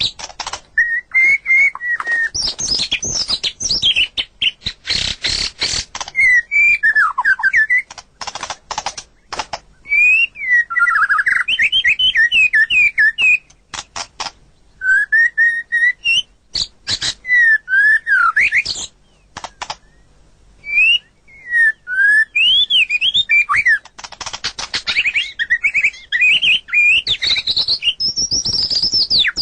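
White-rumped shama (murai batu) in full song: a varied string of loud whistled phrases that sweep up and down in pitch, broken by runs of sharp clicking, rattling notes and a few short pauses.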